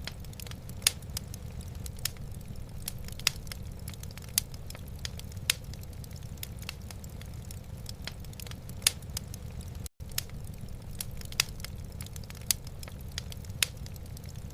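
Wood fire burning in a fireplace: irregular sharp crackles and pops over a steady low rumble. The sound drops out for a split second about two-thirds of the way through.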